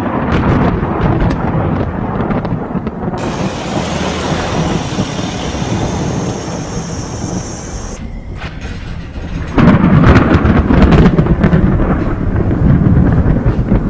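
Thunderstorm: continuous rolling thunder with rain hiss, and a sudden louder, crackling thunder peal about nine and a half seconds in.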